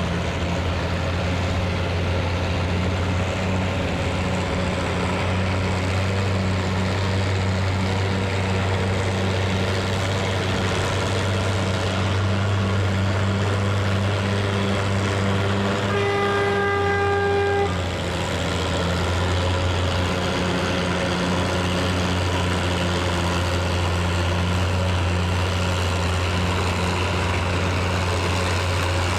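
Farm stock pulling tractor engine running steadily and heavily. About sixteen seconds in, a horn sounds once, a single held tone lasting under two seconds.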